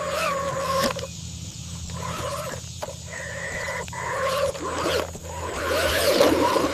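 Animal calls that glide up and down in pitch, over a steady low drone, growing louder near the end.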